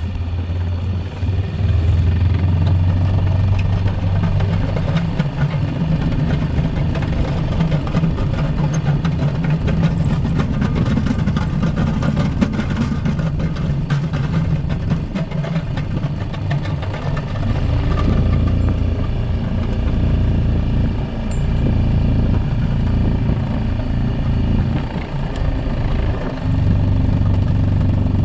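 Four-wheeler (ATV) engine running while plowing snow, its revs rising and falling with the load: higher for a stretch from about five seconds in, dropping back after about eighteen seconds.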